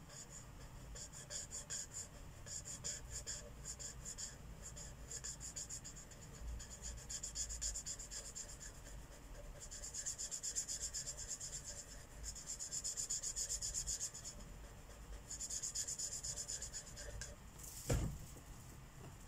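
Marker tip scratching on paper in fast back-and-forth coloring strokes, in stretches of a few seconds, with one sharp click near the end.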